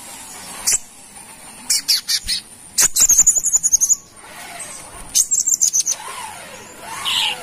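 A sunbird (kolibri kelapa) calling: sharp high chips and two quick bursts of rapid high-pitched trilling, then lower sliding whistled notes near the end.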